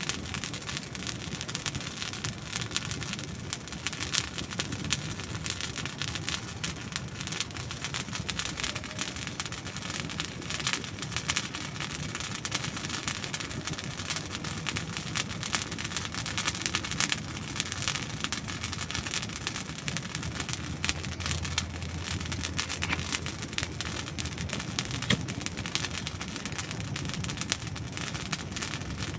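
Wood campfire crackling and popping: a dense, irregular stream of small snaps from burning dry logs over a soft steady hiss.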